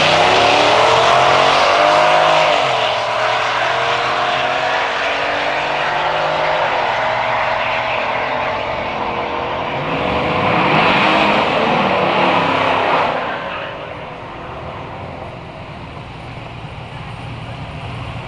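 Drag race car engines at full throttle, pitch climbing with a gear change about three seconds in. Around ten seconds in another engine rises loudly and falls away, and the sound then drops to a quieter, steadier engine note.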